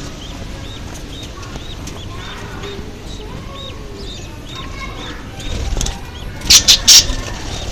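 Small birds calling, with one bird giving a steady run of short, repeated chirps about two or three a second. Near the end come three loud, quick, noisy bursts in a row.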